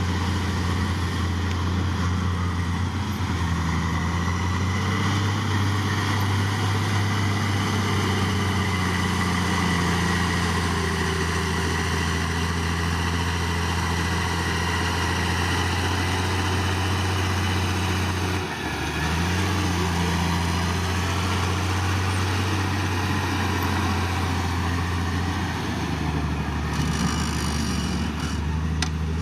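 Heavy diesel engine of earthmoving equipment running steadily, its pitch stepping down and back up a few times, with a few faint metallic clanks near the end.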